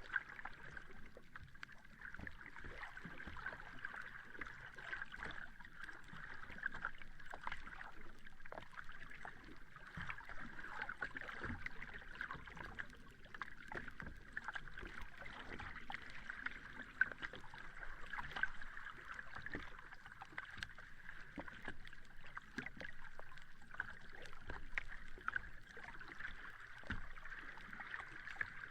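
Sea water lapping and sloshing gently at the shore, with a continual patter of small splashes and no big breaking waves.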